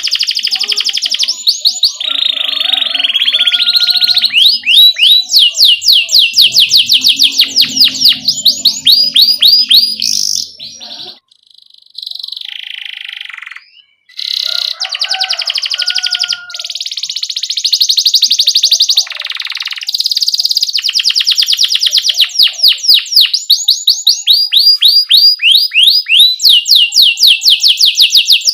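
Domestic canary singing long rolling trills of very fast repeated chirps, in sustained phrases with a short pause around the middle.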